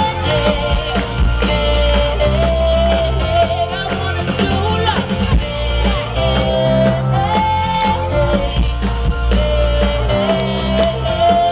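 Live band playing a rock song, a melody line held over a steady bass.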